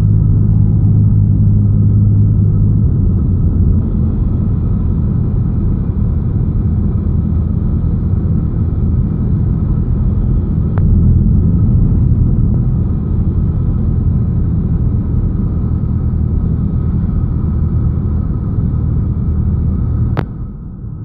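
Cessna 172's piston engine and propeller droning steadily in the cockpit, with a shift in the engine's tone about three seconds in. A single sharp click comes near the end, followed by a brief drop in level.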